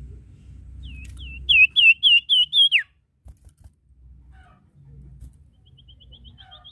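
Sirtu singing: a fast run of about seven loud, whistled notes, the last one dropping sharply in pitch. After a pause a fainter quick trill of short notes follows near the end.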